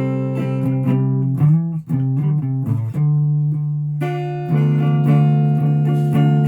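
A guitar being played: plucked notes and chords left to ring into one another, with a fuller, louder chord about four seconds in.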